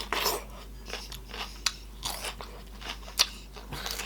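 A person chewing and crunching food close to the microphone, with irregular crisp clicks, the two sharpest about a second and a half in and about three seconds in.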